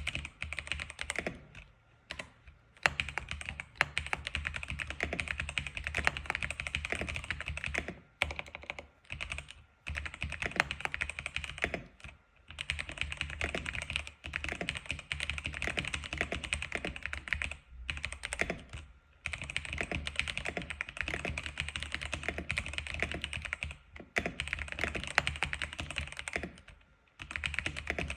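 X87 keyboard being typed on: fast, continuous runs of keystrokes, broken by several brief pauses of under a second.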